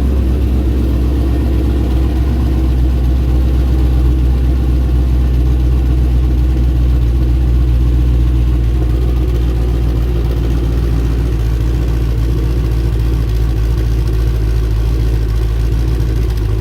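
Twin-turbo GTO's engine idling steadily with a deep, even rumble.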